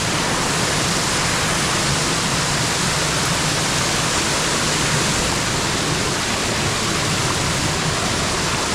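A waterfall's falling water rushing, loud and steady.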